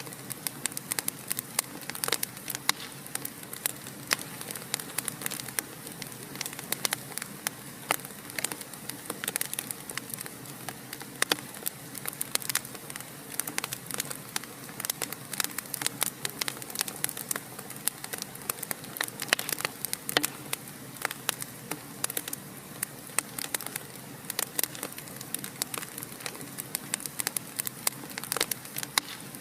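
Wood fire burning in a fireplace, crackling steadily with many irregular sharp pops and snaps over a soft hiss.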